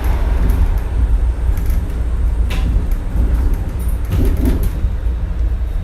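Shonan Monorail suspended car running, heard from inside: a loud, steady low rumble, with a sharp click about halfway through and a few knocks near the end.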